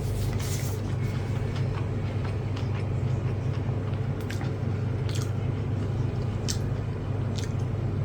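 Scattered short clicks of chewing and eating, over a steady low hum.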